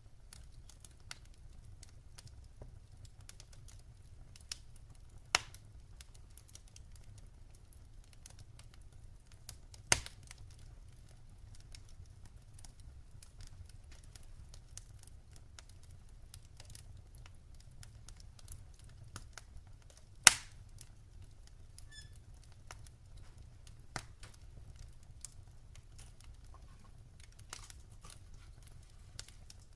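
Firewood burning in a fireplace: faint, scattered crackling over a low steady rumble, with three louder sharp pops about five, ten and twenty seconds in.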